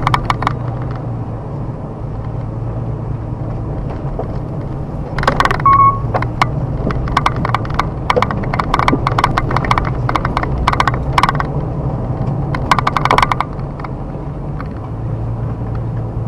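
Car driving slowly on a forest road, its engine running with a steady low drone. From about five seconds in, a long run of crackling and snapping clicks comes from the tyres rolling over fallen twigs and debris on the road surface, then stops.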